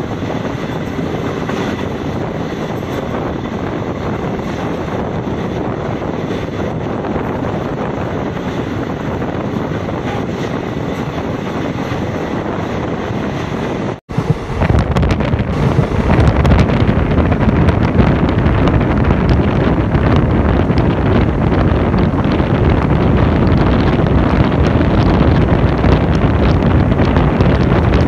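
A DEMU train running at speed, heard from its open doorway as a steady rumble and rush of travel noise. After a cut about halfway it becomes louder, with wind buffeting the microphone.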